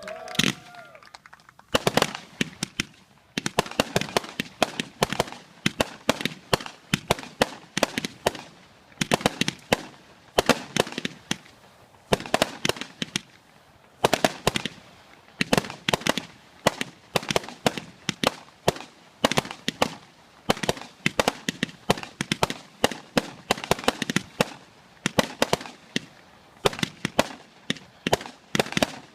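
Saturn missile firework battery firing: a long, rapid string of sharp pops and bangs coming in quick clusters, with a few short lulls.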